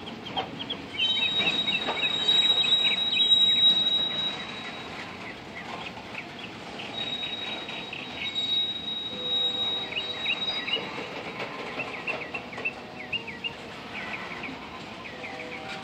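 Freight cars rolling slowly past on the rails, with a high, steady wheel squeal about a second in that lasts a few seconds and comes back for another few seconds midway, and many short high chirps throughout.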